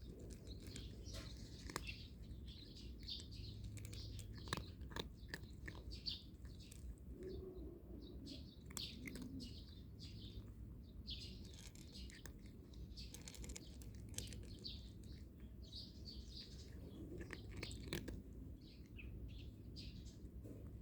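A cat crunching dry kibble in irregular sharp crunches, with small birds chirping over it.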